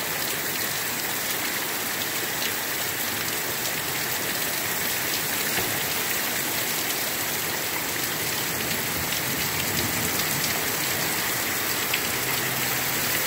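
Very heavy rain pouring down in a steady, unbroken downpour.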